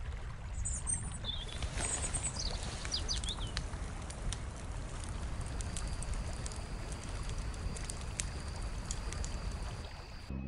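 Outdoor nature ambience: birds chirping a few times in the first few seconds over a steady rushing background, with scattered light ticks and a thin high steady tone through the second half.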